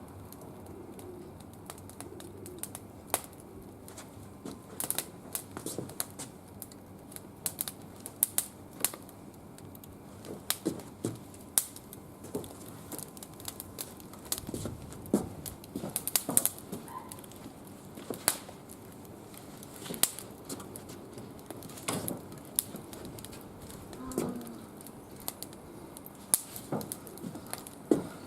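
Wood fire crackling in a barbecue grill, with irregular sharp snaps and pops, bunched more thickly at times.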